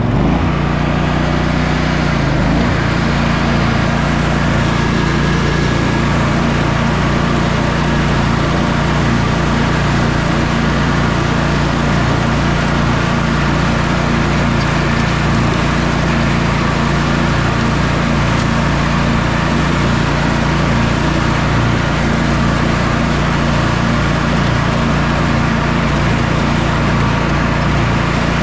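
John Deere Sabre lawn tractor's twin-cylinder engine running steadily on a test mow, settling to a steady speed about two seconds in. It runs evenly, with everything working after its carburetor and starter repairs.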